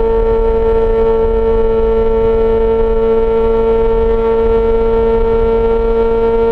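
Yamaha XJ6 S inline-four engine through an SC-Project exhaust, held at a steady high rpm while cruising: one unchanging droning tone over wind and road rumble.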